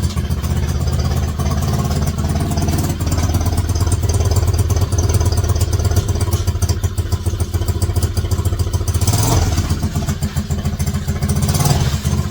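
A 125cc mini bike engine running under load, its revs rising and falling as the bike is driven on its newly fitted tracks and chain.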